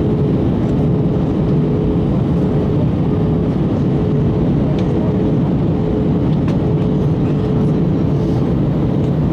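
Steady cabin noise of an Airbus A321 in flight: a deep, even rumble of airflow and jet engines, with a faint steady hum tone running through it.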